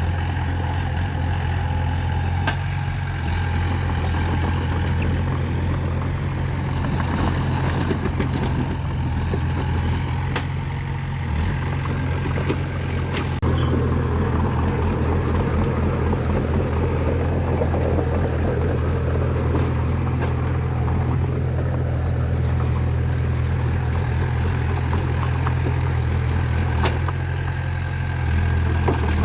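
Diesel engine of heavy earthmoving machinery running steadily, a little louder about halfway through, with scattered clicks and rattles.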